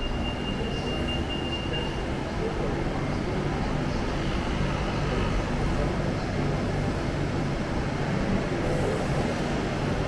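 BTS Skytrain train running, a steady low rumble, with a thin high whine during the first two seconds.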